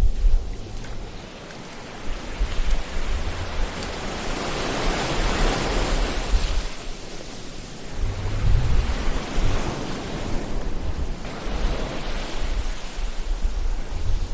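Ocean surf: waves swelling into a broad hiss and falling back, with a low rumble as they break.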